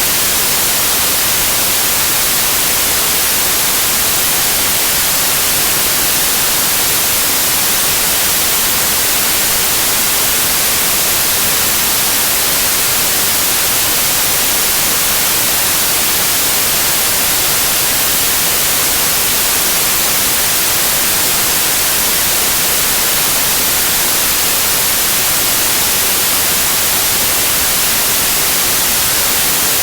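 Steady white noise of TV static: an even, unchanging hiss weighted toward the high end.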